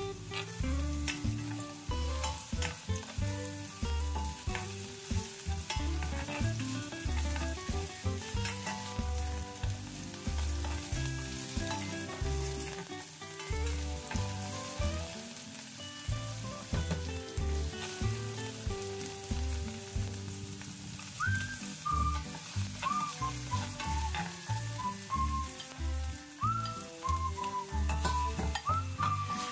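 Chopped onions and ginger sizzling in hot oil in a stainless steel pot while a spoon stirs them, with scattered clicks of the spoon against the pot. Background music with a steady low beat plays underneath, with short whistled notes near the end.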